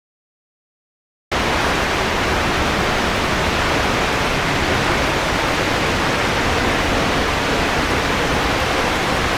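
Waterfall rushing close by: a loud, steady, even noise that starts suddenly after about a second of silence.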